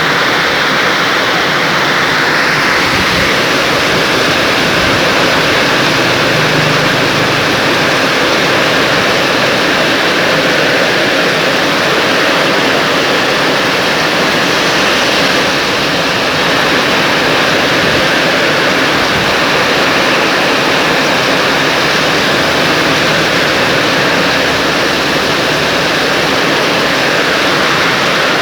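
Loud, steady rush of flowing water, an even roar with no breaks.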